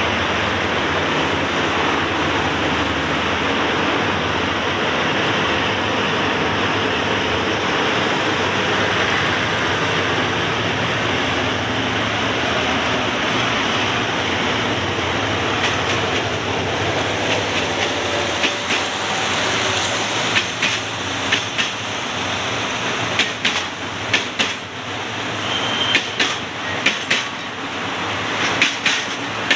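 Passenger train running past on the track with a steady rumble and wheel noise. About halfway through, sharp clacks of wheels over rail joints begin and come more and more often toward the end.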